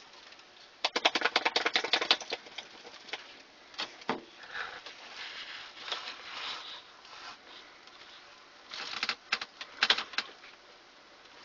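A small dog's claws scrabbling and tapping in quick runs of sharp clicks, about ten a second for over a second near the start, with scattered taps after and another cluster near the end.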